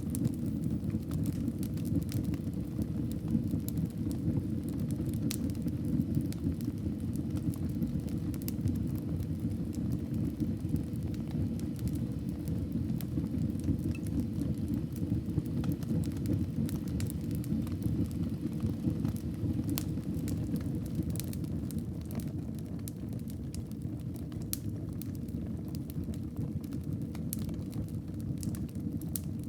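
Wood fire burning in a fireplace: a steady low noise from the flames, with sharp crackles and pops scattered irregularly throughout.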